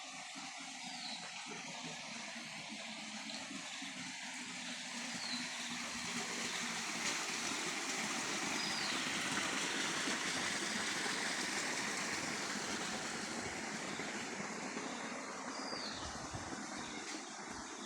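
Running water of a stream or waterfall, a steady rush that grows louder toward the middle and eases off again. A bird gives about five short, high, falling chirps over it.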